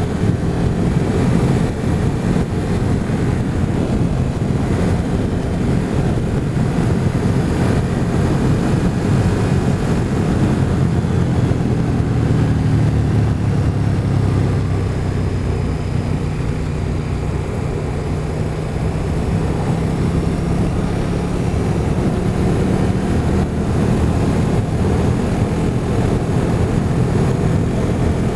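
Motorcycle engine running steadily at road speed under a constant rush of wind and road noise.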